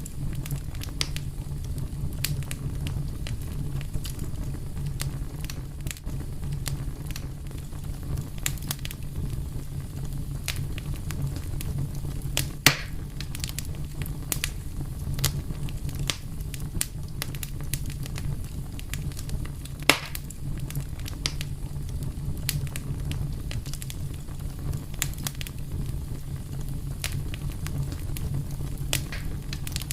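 Fire crackling steadily over a low rumble, with frequent sharp snaps and two louder pops, roughly a third and two-thirds of the way through.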